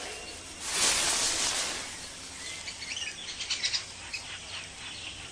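Tropical forest ambience: a brief noisy rustle about a second in, followed by scattered short, high bird chirps.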